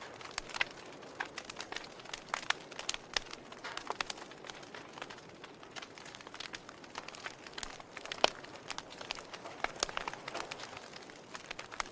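Fire crackling: irregular sharp pops and snaps over a soft, steady hiss, with one louder pop about eight seconds in.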